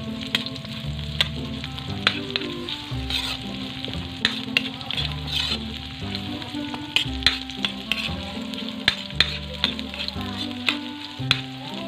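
Sliced ginger, long chilies and garlic sizzling in hot oil in a pan as they are sautéed to brown. A spatula stirs them, with sharp clicks and scrapes against the pan every second or so.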